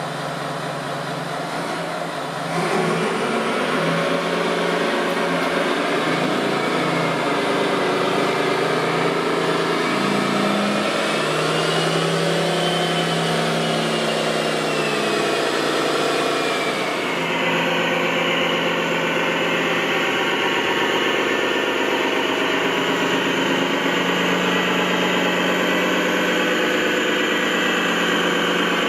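Radio-controlled construction vehicles running, a steady engine drone with a slow rise and fall in pitch partway through. The sound changes abruptly twice, about two seconds in and just past the middle.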